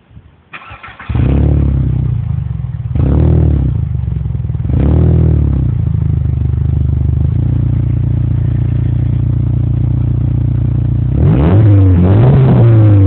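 Volkswagen Golf IV engine heard through its exhaust. It starts and catches about a second in, gets three quick blips of the throttle, settles into a steady idle, then is revved up twice near the end.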